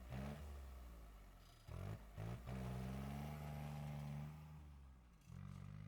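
Kubota turbo-diesel engine in a Suzuki Carry mini truck pulling away under acceleration. It revs up, drops off about a second and a half in, climbs again and holds, then falls away and picks up once more near the end, like gear changes.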